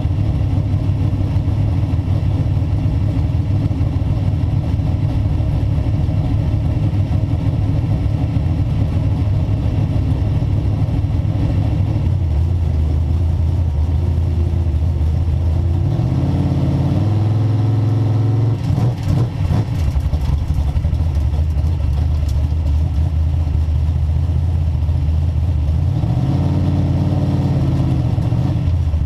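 Race car engine idling loudly inside the stripped cabin, pitch rising twice under light throttle, around the middle and near the end, with a few sharp clicks in between.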